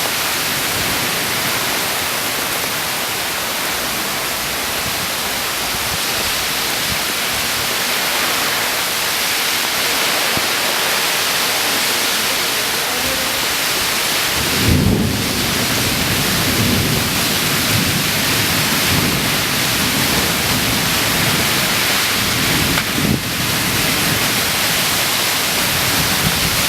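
Heavy rain pouring in a windy storm, a steady loud hiss. About halfway through, a low gusty rumble comes in and keeps rising and falling.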